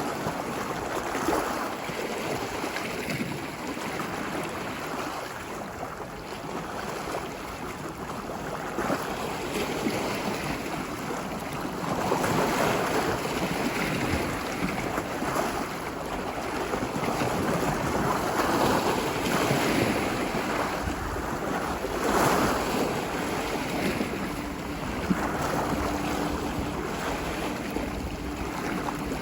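Ocean surf washing ashore: a continuous rushing hiss that swells and falls as waves break. A faint steady low hum joins near the end.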